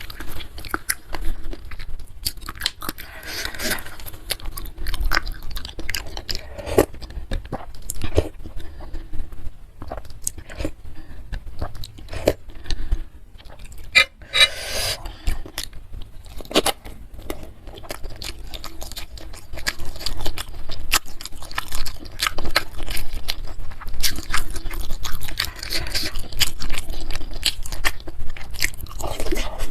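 Close-miked eating of bakso meatball soup: steady chewing and biting, with many small wet clicks and smacks of the mouth and a longer, louder stretch a little before halfway.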